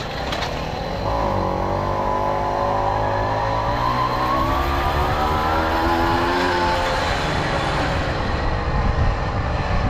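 Tomos Silver Bullet moped's two-stroke engine accelerating: its pitch climbs steadily from about a second in, then drops back near the end as the throttle eases.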